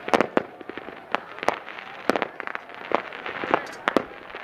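Fireworks going off in quick, irregular succession: a string of sharp bangs and pops, several close together, over a continuous haze of noise.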